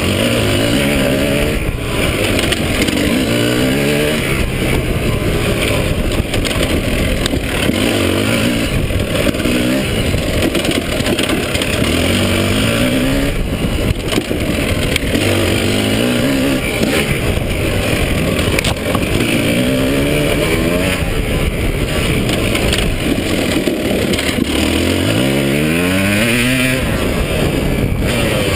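KTM 300 two-stroke dirt bike engine heard from on the bike, its pitch rising again and again as the throttle is opened, then dropping back between pulls as the rider works along a rough trail.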